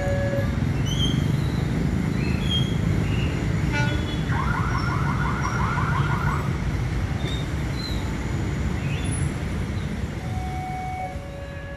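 Passenger train carriages running over the rails as the train pulls away, a steady low rumble that fades near the end. Small chirps sound higher up, and a rapid warbling trill comes about four seconds in.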